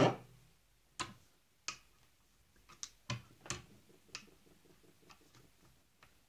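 Sharp clicks and small knocks, about eight spread over four seconds, from working a coffee machine hose and its brass fitting with pliers and a vise, followed by a faint run of quick ticks.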